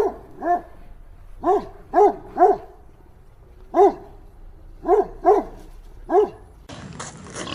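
A dog barking: about nine short barks in twos and threes, each with a brief rise and fall in pitch. Near the end the barking stops and a steady background noise takes over.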